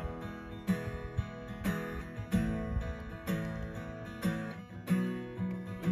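Acoustic guitar strummed in a steady rhythm, about one strum a second, the chords ringing on between strums: the introduction to a sung song.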